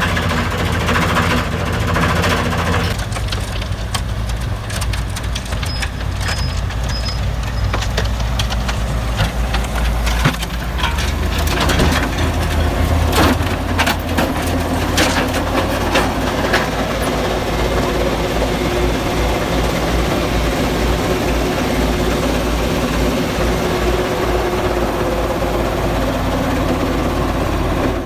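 Front loader with a self-powered auger snowblower attachment running steadily under load, its engines giving a continuous low drone. Sharp cracks and knocks come through between about ten and seventeen seconds in.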